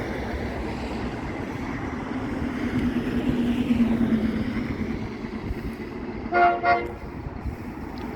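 Approaching passenger train running, its rumble building, then two short horn toots close together about six seconds in.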